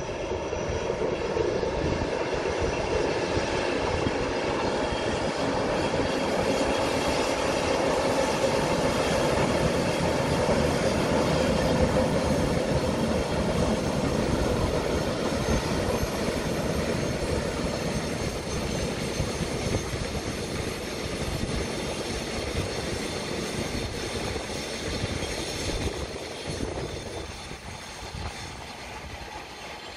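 Container freight train running past: a steady rumble of wheels on the rails that builds to its loudest midway, then fades near the end.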